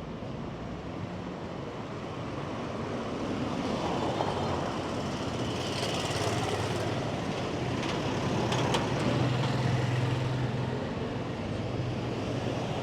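Street traffic: motor vehicles running close by, with a low engine hum that grows louder in the second half and swells as vehicles pass.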